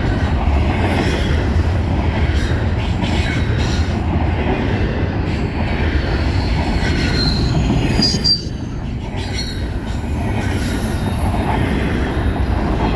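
Intermodal freight train's container cars rolling past: a steady, loud rumble of wheels on rail, with thin wheel squeal coming through about seven to eight seconds in. The sound eases off slightly just after that.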